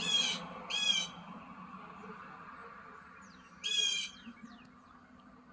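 A bird gives three short, harsh squawking calls, two close together at the start and one more about three and a half seconds in, over a steady low background hum.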